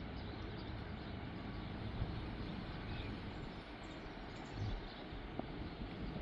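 Steady rumbling noise of a freight train's cars rolling past.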